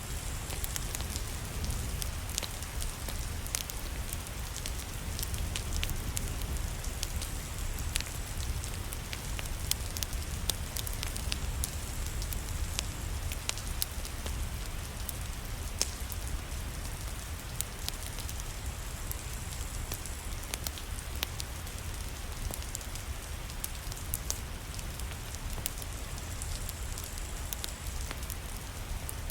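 Steady rain with a wood fire crackling: frequent sharp pops over an even hiss and a low rumble underneath.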